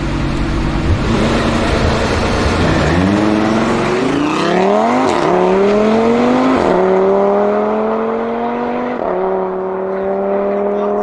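Supercar engine accelerating hard through the gears. After a low steady run it climbs in pitch, dropping back at three upshifts about five, seven and nine seconds in, and climbing again after each.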